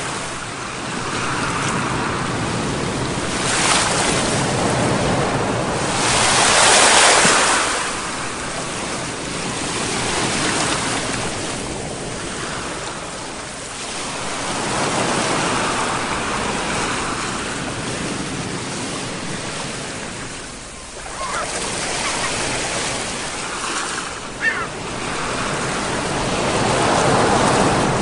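Ocean surf: waves washing in and breaking in slow swells, loudest about a quarter of the way in and again near the end. A brief sharp high sound cuts through about three-quarters of the way in.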